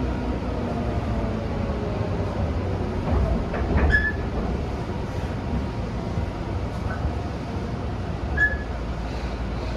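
Interior running sound of a Tobu 10000 series electric train rolling slowly: a steady low rumble, with a brief high wheel or brake squeal about four seconds in and again near the end.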